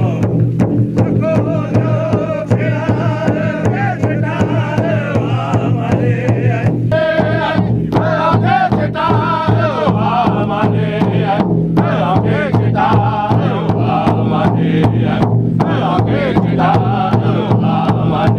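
Native American drum and singers: men chanting in wavering voices over a steady, even drumbeat.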